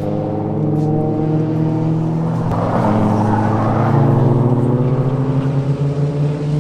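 Car engine pulling hard on a race track, its pitch sinking slowly and then climbing again. A rushing noise joins from about two and a half seconds in.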